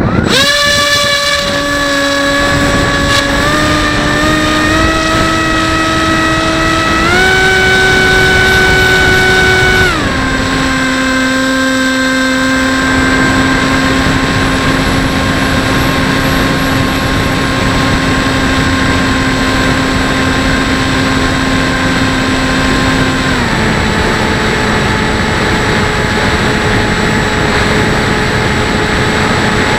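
Bixler 1.1 model plane's electric brushless motor and pusher propeller running on a 4S battery: a steady whine that steps up in pitch several times over the first ten seconds as the throttle is opened, drops about ten seconds in, and drops again a little lower near the end, over rushing wind noise.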